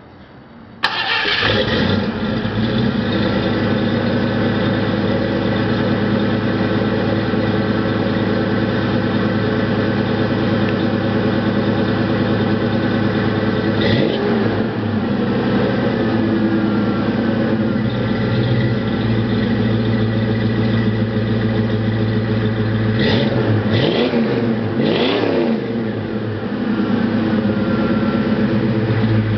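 A 1989 Ford Mustang's 5.0 L (302) V8 cranks and fires about a second in, then settles into a steady idle through stock headers, an off-road H-pipe and Flowmaster 40 series mufflers. It is revved briefly once about halfway through, then twice more in quick succession near the end, each time dropping back to idle.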